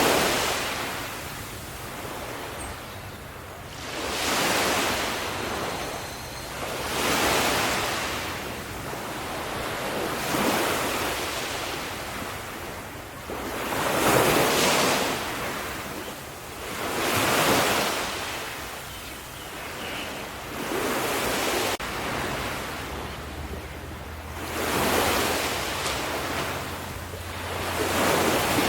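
Ocean waves: one wash of surf after another, each swelling and fading, about every three to four seconds.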